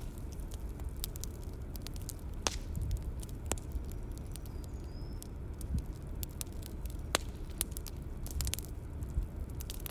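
Bonfire crackling: irregular sharp pops and snaps over a steady low rumble of burning.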